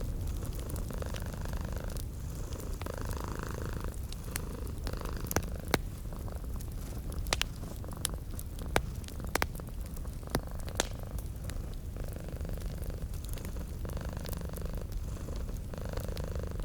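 Domestic cat purring steadily, the purr swelling and easing with each breath about every two seconds, over a crackling wood fire with sharp pops and snaps, most of them near the middle.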